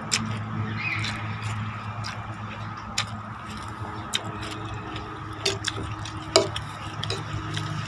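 Scattered light clicks and knocks at irregular intervals over a steady low hum.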